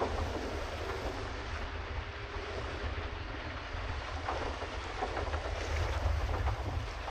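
Wind rumbling on the microphone over a steady wash of water splashing around a pedal boat.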